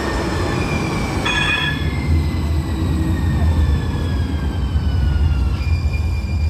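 One-car Muni Metro Siemens LRV4 light rail train pulling in underground. Its motor whine falls steadily in pitch as it slows, over a low rumble, with a brief high squeal about a second in. Near the end the whine levels off to one steady tone.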